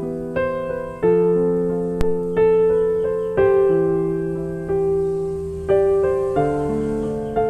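Slow, soft piano music: notes and chords struck about once a second, each left to ring and fade. A single sharp click about two seconds in.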